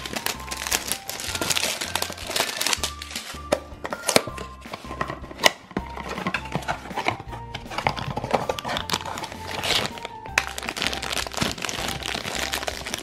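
Crinkling and crackling of a foil blind bag and its cardboard box being opened by hand, with many small sharp clicks. Background music with a repeating bass pattern plays under it.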